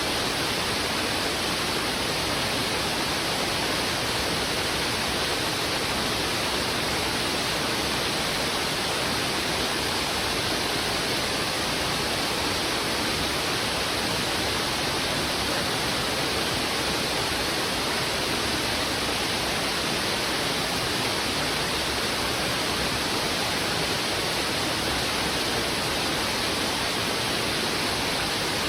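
Heavy river water rushing steadily, a dense, even hiss with no change or separate splashes.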